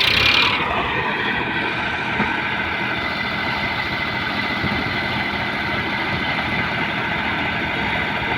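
Swaraj tractor diesel engine running steadily. A louder burst of noise in the first second fades away.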